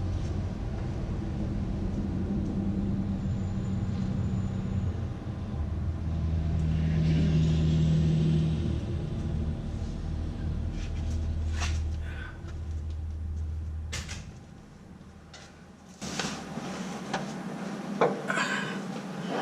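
A motor vehicle's engine running at low revs, its rumble swelling about midway and then fading away. A few sharp knocks and clinks near the end.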